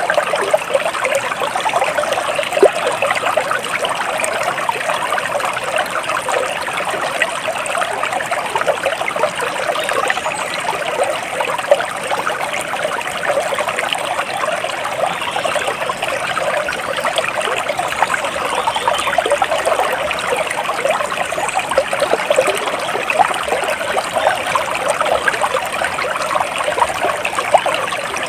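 A small stream of water trickling and babbling steadily over stones.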